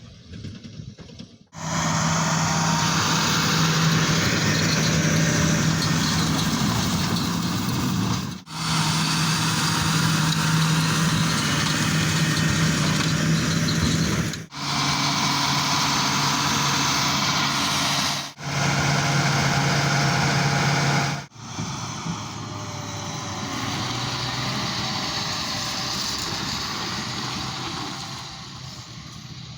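John Deere 8345R tractor running steadily with a low engine hum while pulling a Krone Big Pack square baler through hay. The sound cuts off and restarts abruptly several times, then grows quieter near the end.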